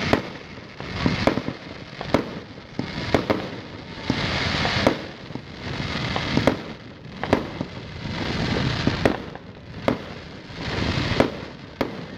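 Aerial fireworks display: shells bursting in a rapid string of sharp bangs, with stretches of crackling lasting about a second several times.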